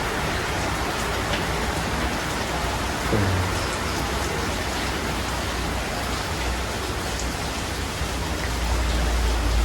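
A steady rushing noise, with a low rumble that swells near the end and a brief thud about three seconds in.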